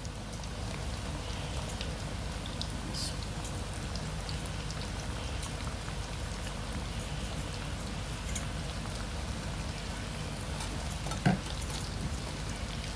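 Breadcrumb-coated chicken strips frying in hot oil: a steady sizzle with scattered small crackles, and one brief knock about eleven seconds in.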